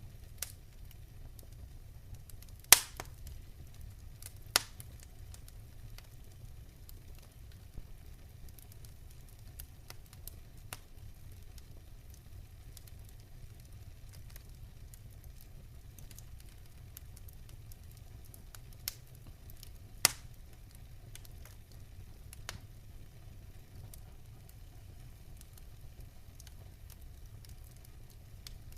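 Wood fire burning in a fireplace, crackling with scattered sharp pops, three louder ones standing out, over a steady low rumble.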